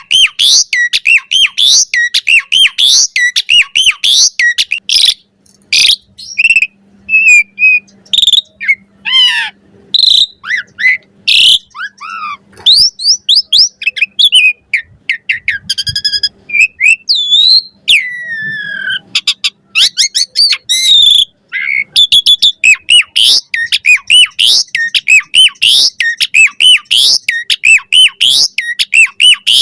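Asian pied starling (jalak suren) singing its varied chattering song. It opens with a fast run of short rising whistled notes, several a second, breaks into a mix of whistles, harsh chatter and falling glides, and goes back to the rapid rising notes about two-thirds of the way through.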